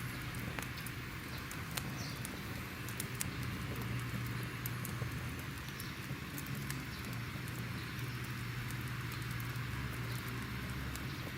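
Fire crackling: a steady rushing bed with irregular sharp snaps and pops scattered throughout.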